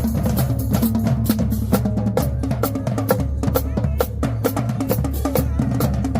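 High school marching band playing: a drumline's rapid, sharp snare and rim strokes over bass drums, with brass holding low notes underneath.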